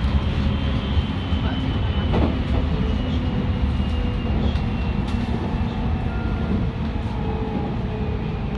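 Electric commuter train on the Tokaido Line running: a steady low rumble with a faint whine that drifts slowly lower, and a few light clicks.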